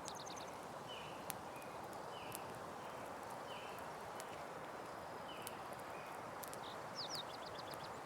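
Campfire crackling, with scattered sharp pops over a steady hiss. Birds chirp in the background, short calls about once a second and a quick trill of several notes near the end.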